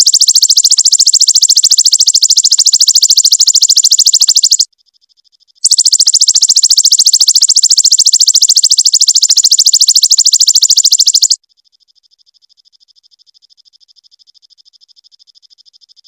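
Prinia (perenjak) giving its rapid-fire 'tembakan' call: a very fast, high, buzzing trill. It comes in two long loud bursts with a short break about four and a half seconds in, then turns to a much quieter, thinner trill about twelve seconds in.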